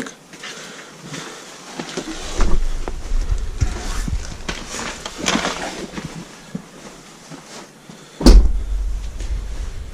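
Footsteps, rustles and knocks of someone moving into an abandoned house, with one loud thump about eight seconds in, followed by a low rumble.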